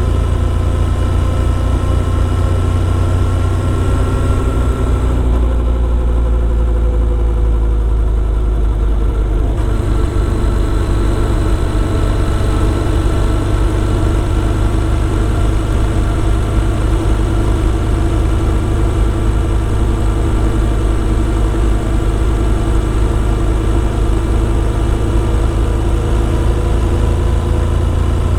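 Motorcycle engine running under way, its pitch dropping about five seconds in as the throttle eases off, then climbing slowly back and holding steady.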